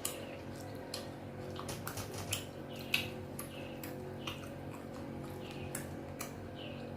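Close-up wet eating sounds of amala with ewedu and egusi soup: sticky mouth clicks and lip smacks, irregular, about two a second, over a faint steady hum.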